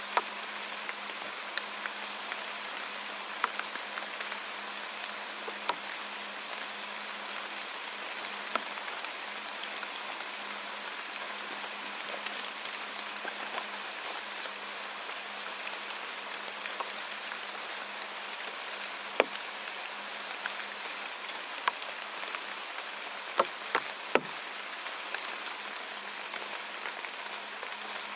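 Steady rain falling: an even hiss with scattered sharp ticks of single drops, a few louder ones past the middle.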